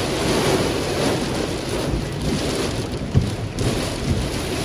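Heavy storm rain and wind beating on a car's roof and windscreen, heard from inside the cabin as a dense, steady rush, with one sharper knock about three seconds in.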